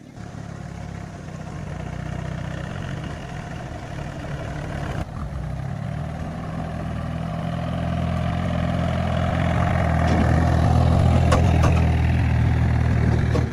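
A vehicle engine running steadily, with a low, even hum that grows louder in the second half.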